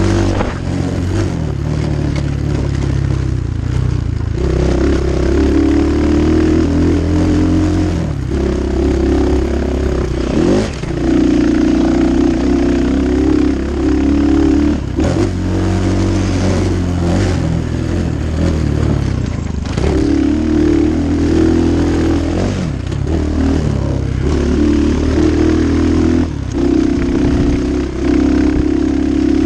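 Templar 250cc dirt bike engine ridden hard, revving up and down through the gears. The throttle is chopped briefly every few seconds, as for jumps and corners, and picks up again at once.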